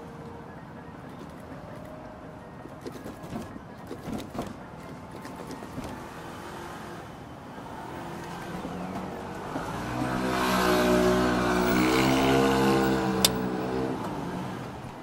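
A motor vehicle engine running, swelling to its loudest for a few seconds in the second half and then easing off, with a sharp click near the end; before it, a low steady background with scattered small knocks.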